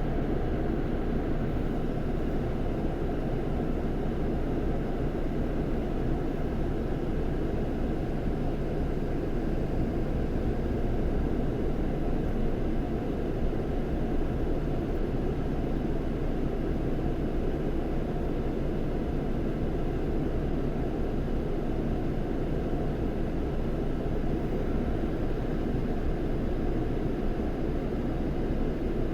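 Scania K400 coach's inline-six diesel engine running steadily: a constant low drone that holds an even level with no revving.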